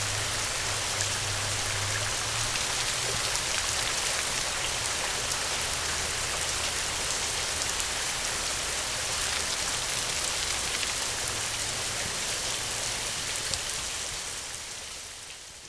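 Steady gentle rain: a dense hiss of fine raindrops pattering on a surface, with a low steady hum underneath. It fades out over the last couple of seconds.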